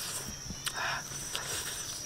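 Close-up chewing and crunching of grilled meat, with a noisy bite sound about a second in and a few sharp clicks, over a steady high insect buzz.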